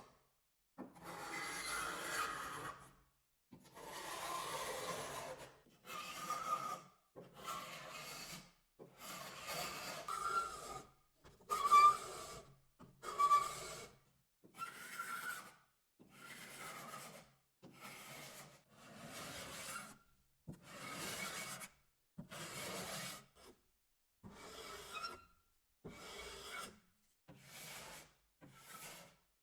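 A hand tool rasping or rubbing across wood in slow, repeated back-and-forth strokes. Each stroke lasts about a second, with roughly one every second and a half, and silence between them.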